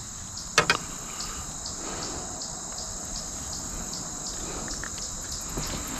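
Insects chirping steadily in a high, even chorus with pulses about three times a second. Two sharp clicks sound about half a second in.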